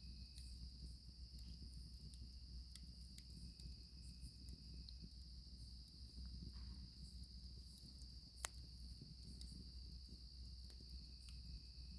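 Crickets calling in a steady, continuous high trill, over a campfire crackling with scattered faint pops, one sharper pop about eight seconds in.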